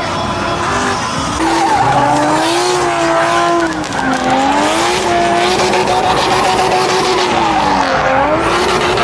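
Car engine revving hard and held at high revs, its pitch dipping and climbing back twice, about four and eight seconds in, with the hiss and squeal of spinning tyres under it, as in a burnout.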